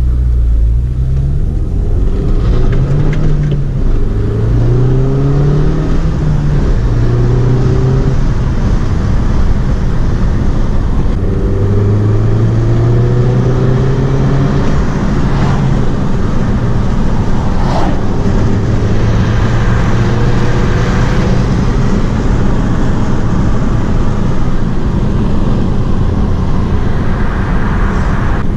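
Mini Cooper S turbocharged four-cylinder engine pulling under acceleration, its note rising with revs and dropping back at each upshift several times, over steady road noise.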